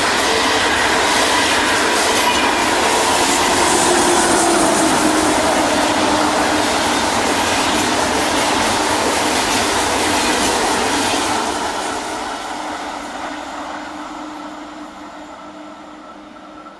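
ICE high-speed train passing at speed, a steady loud rush of wheels on rail. It fades away from about eleven seconds in as the train draws off.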